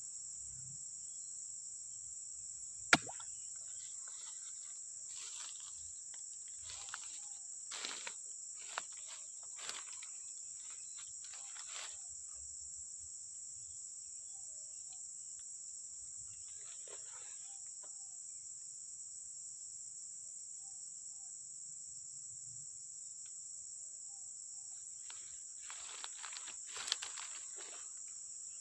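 Steady high-pitched chorus of crickets and other insects, with a sharp knock about three seconds in and scattered short rustling and handling noises.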